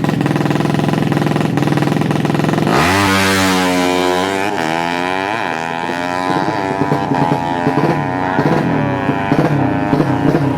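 Yamaha Jupiter Z drag bike with a 200cc four-stroke single held at high revs, then launching hard about three seconds in. Its pitch climbs and drops back several times as it shifts up through the gears, then turns rougher and fades.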